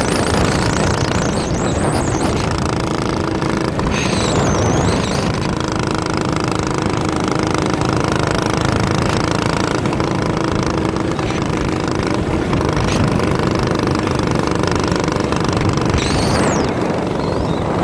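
Minibike's small engine running steadily and loud, with no change in loudness.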